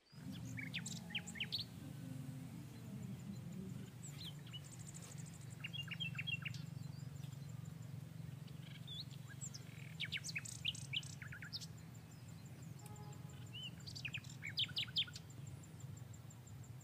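Small birds chirping in short clusters of quick calls, over a steady low hum.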